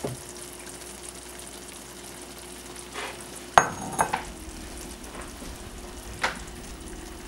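Glass noodles in sauce sizzling softly in a hot nonstick pan, a steady quiet hiss, with a few sharp knocks, the loudest about three and a half seconds in.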